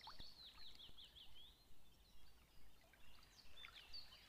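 Faint birdsong: a quick run of high chirps, each falling in pitch, for the first second and a half, then a few more chirps near the end.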